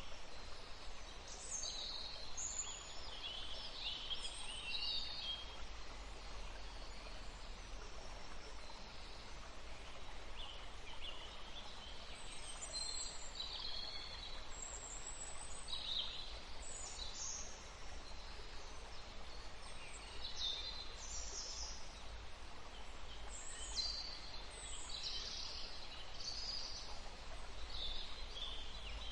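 Songbirds chirping and trilling in short, high bursts that come in clusters every few seconds, over a steady low background rumble.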